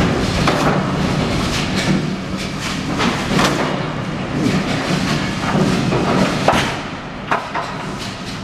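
A heavy forklift's diesel engine running steadily under repeated clanks and knocks of bundled freight being handled off a flatbed trailer.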